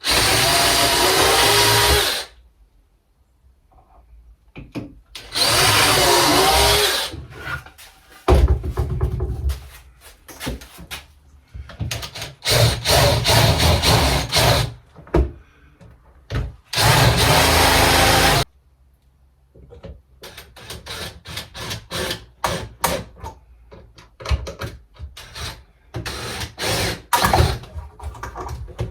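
Power drill driving screws into the wooden baseboard frame as it is screwed together. It runs in several bursts of one to three seconds, its motor pitch rising and dipping, then gives a quick series of short trigger bursts near the end.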